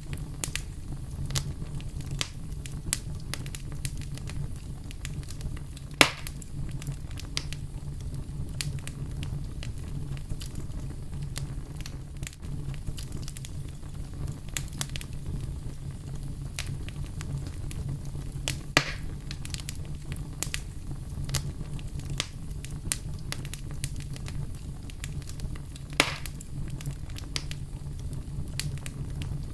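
Wood fire burning with constant small crackles over a steady low rumble, and three louder pops spaced several seconds apart.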